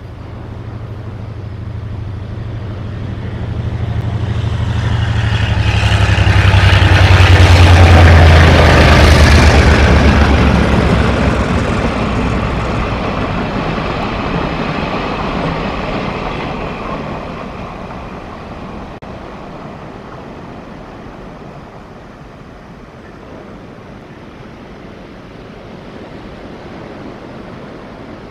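Diesel-electric locomotive engine and the freight train's wheels on the rails passing through: a low engine drone and clatter build to their loudest about a third of the way in, then fade as the train moves away, leaving the wash of surf on the shore.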